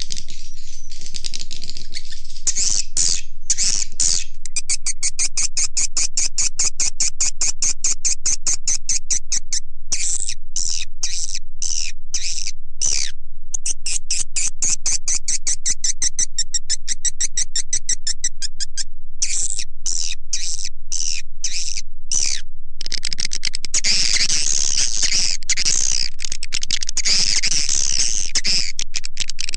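Swiftlet lure call recording of chirping edible-nest swiftlets, played loud and steady. Fast runs of high chirps, about seven a second, alternate with slower pulses about two a second, then give way near the end to a dense twittering chorus.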